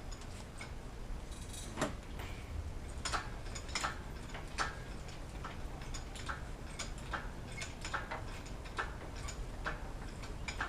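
Irregular sharp metallic clicks and knocks, roughly one every half second to a second, over a low steady hum, from hand work with tools or the jack under a vehicle.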